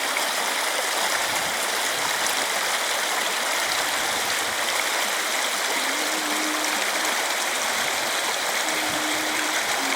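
Clear mountain river flowing, a steady, even rush of water.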